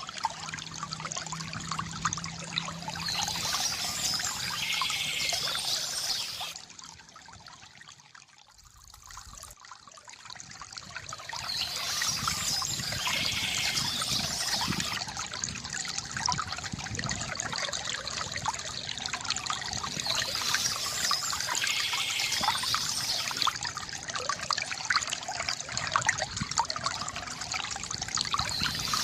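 Water trickling and pouring from a bamboo fountain, a continuous gurgling splash that drops away for a few seconds about a quarter of the way in, then returns.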